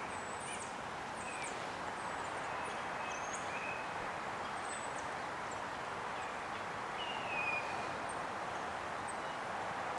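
Small wild birds giving short, high, thin call notes again and again over a steady rushing background, with one louder, lower call about seven seconds in.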